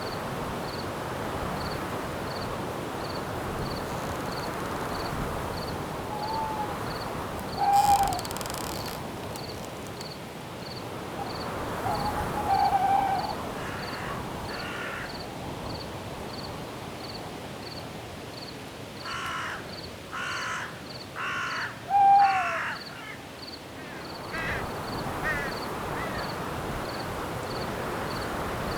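Forest night ambience: a steady wind hiss through the branches with a faint, even cricket pulse, about two chirps a second. Birds call over it: a few short clear notes, then a run of four harsh calls about two thirds of the way through, followed by a few fainter ones.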